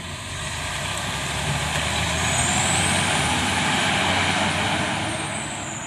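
Fire engine driving past, its diesel engine building to a peak a few seconds in and then fading as it moves away, with a faint high whine over the engine.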